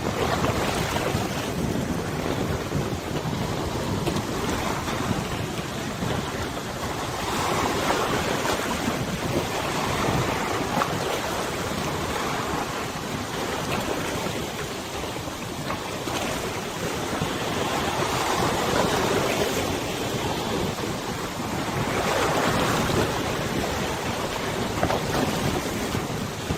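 River water washing and wind blowing across the microphone, a steady rushing that swells and eases every few seconds.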